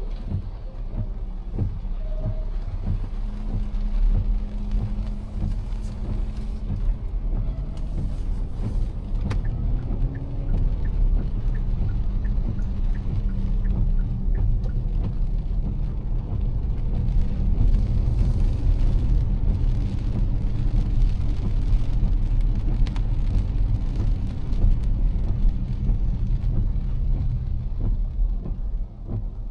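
Car driving in heavy rain, heard from inside the cabin: a steady low rumble of engine and tyres on a wet road, with raindrops tapping on the windshield and roof throughout.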